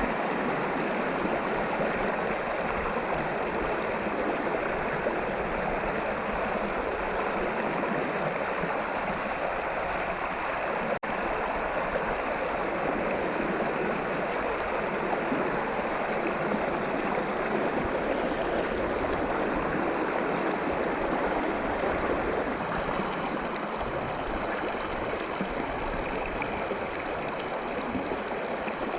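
Steady rush of flowing river water from a river running high after floods.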